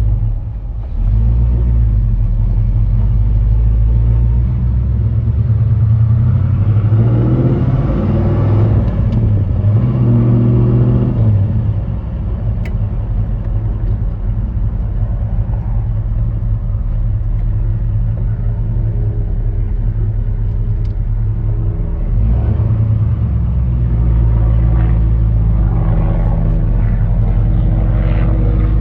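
1965 Pontiac GTO's 389 V8 engine running under way, heard from inside the car. The engine note climbs from about seven to eleven seconds in, then drops suddenly at about twelve seconds and settles back to a steady drone.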